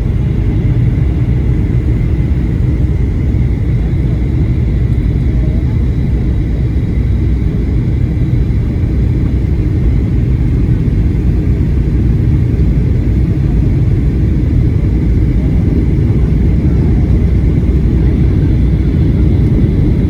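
Boeing 737 cabin noise in flight on approach: a steady, loud rumble of engines and airflow heard from inside the cabin, with a faint steady whine above it.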